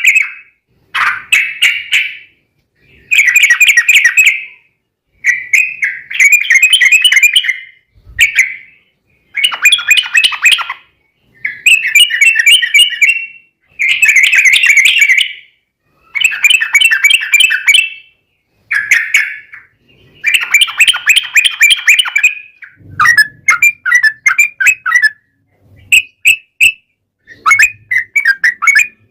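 Yellow-vented bulbuls (trucukan) singing loudly in quick, bubbling phrases about one to two seconds long, one after another with short gaps. Past the middle the phrases turn into shorter, choppier bursts.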